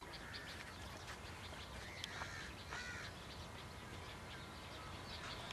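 Birds calling over a steady background hiss: two arched calls close together about two seconds in, with scattered short chirps.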